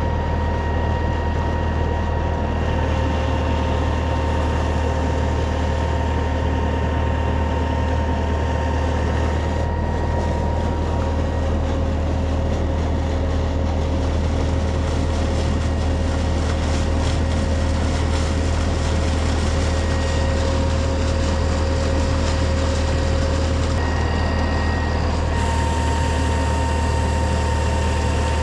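Farm tractor's diesel engine running steadily at constant speed, a deep hum with a steady whine over it that shifts slightly a few times.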